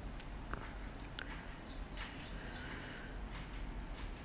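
Small birds chirping faintly in the background, a quick series of short high notes about two seconds in, over a steady low hum. A couple of light clicks come in the first second and a half.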